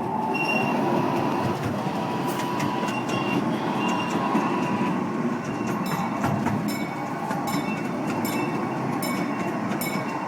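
Small zoo ride train rolling slowly along its track, with a steady rumble and a faint squeal from the wheels. From about halfway, its wheels click over the rail joints about twice a second.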